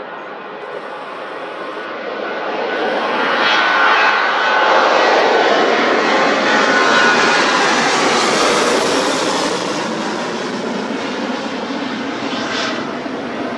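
Ryanair Boeing 737 jet engines at takeoff power, swelling to a peak about halfway through as the aircraft passes, with a whine that drops in pitch, then fading.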